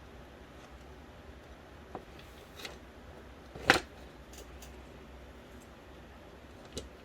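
A few scattered clicks and taps from the parts of an Xbox DVD drive and the tools being handled during disassembly, with one much louder clack a little past halfway.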